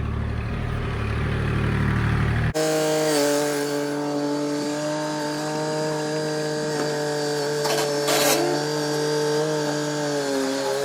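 Tractor engine running steadily. About two and a half seconds in, the sound changes abruptly from a deep rumble to a steadier, higher engine note, which dips briefly in pitch near the end.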